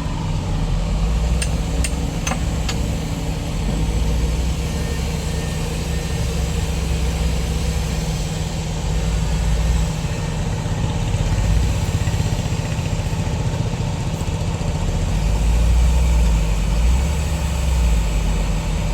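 Heavy diesel engine of earth-moving machinery running steadily, its low rumble swelling now and then, with a few sharp clicks about two seconds in.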